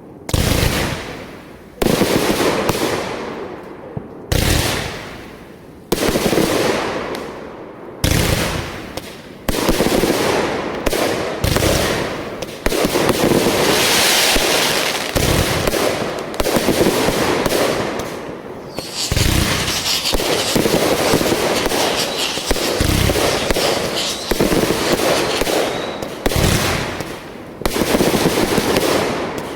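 Fireworks going off in the neighbourhood: a run of sharp bangs every second or two, each fading into a rumbling echo. In the second half the bangs come thicker, with rapid popping between them.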